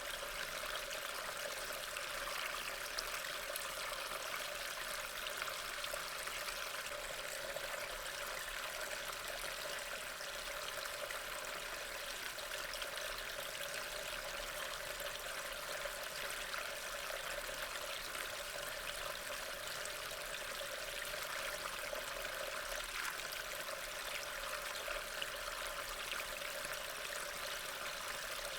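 Steady rain: an even hiss of falling water with faint scattered drop ticks, unchanging throughout.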